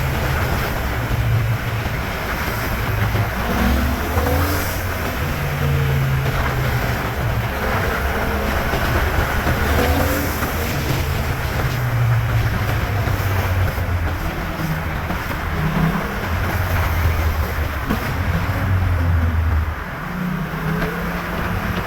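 Yamaha MT-07's parallel-twin engine through a LeoVince underbody exhaust, ridden in town: the exhaust note climbs and drops every few seconds with throttle and gear changes, over a steady rush of wind. It eases off briefly near the end, then picks up again.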